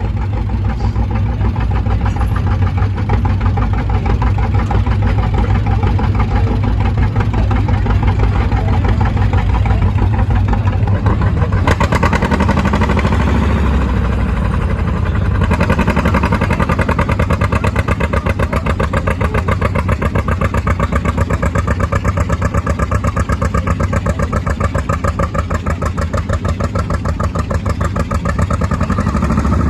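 Tractor-pull engine running hard and loud with a steady, rapid firing beat. It grows louder and harsher about twelve seconds in and again a few seconds later, then holds at that level.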